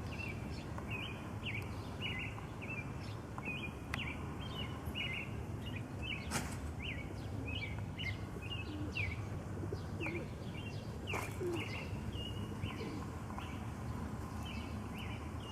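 Small birds chirping: many short, quick chirps repeating over a steady low background noise, with a couple of sharp clicks.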